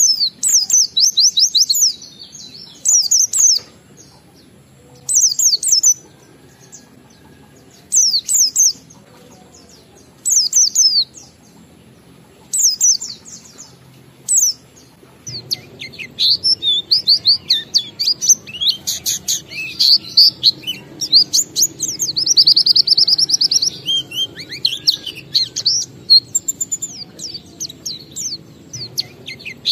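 White-eye (pleci) singing. For the first half it gives short phrases of quick, high, falling chirps every two to three seconds; then from about halfway it sings a continuous, fast warbling song with a rapid even trill.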